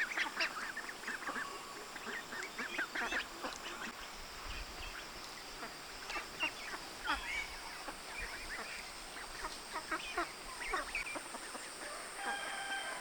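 Farmyard fowl calling: a steady flurry of short, irregular calls, with one longer held call near the end. A faint, steady high tone runs underneath.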